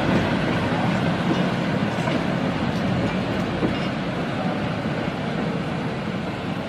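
Train running along the track, a steady rumble with faint clicks that slowly fades.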